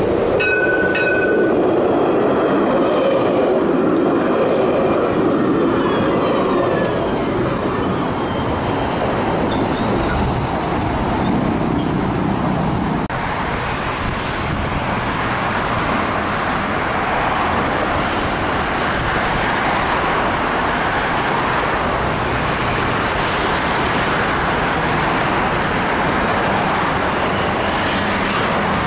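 An electric train running past on the line, a steady loud rumble of wheels on rails, with a brief high tone about half a second in.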